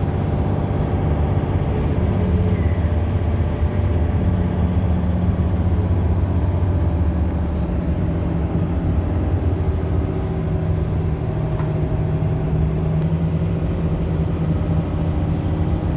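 Bus engine running, heard from inside the cabin: a steady low drone whose pitch shifts a couple of times as it drives.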